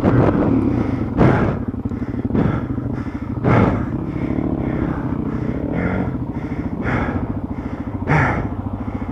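Dual-sport motorcycle engine running at low speed on a slick mud trail, with short louder bursts every second or two.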